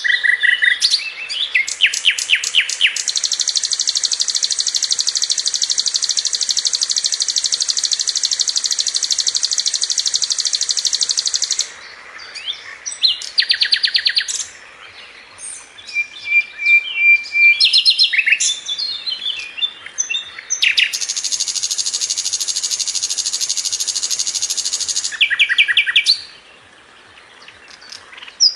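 Sikatan londo flycatcher singing in long, very fast, tight trills, high-pitched and held for several seconds at a time. Between the trills come bursts of quick repeated notes and short chirps.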